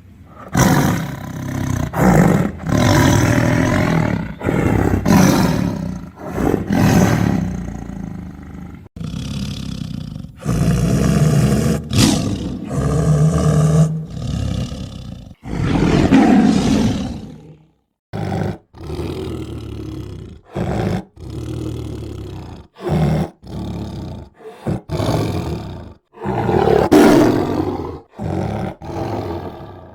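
Tiger roaring and growling in a run of separate, loud roars, some drawn out for a couple of seconds and others short and clipped. From about halfway through they come in quick succession, with short silent breaks between them.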